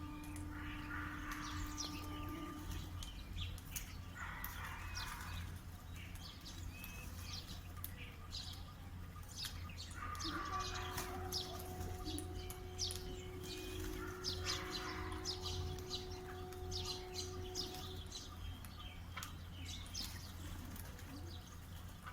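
Many birds chirping in quick, overlapping short calls, over a steady low hum.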